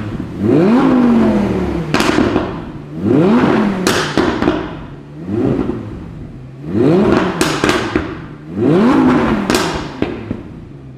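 Audi R8 4S's 5.2-litre V10 revved in about five quick blips, each rising and falling back. Sharp exhaust pops and crackles come on the lift-off after most blips, from a pops-and-bangs tune.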